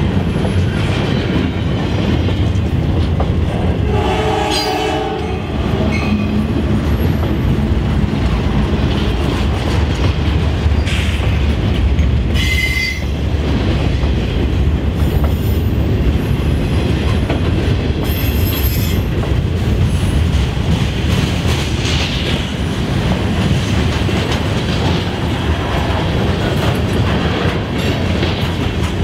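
Freight cars of a passing freight train rolling by close at hand: a steady heavy rumble and clatter of steel wheels on the rails, with a few brief wheel squeals, one high and thin about twelve seconds in.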